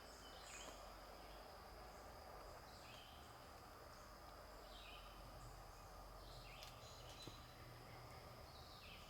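Faint forest ambience: a steady high insect trill, with a bird giving a short falling call about every two seconds.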